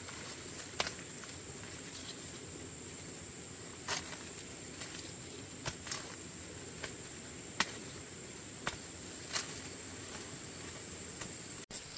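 Steady high-pitched insect drone with irregular sharp clicks and snaps scattered through it.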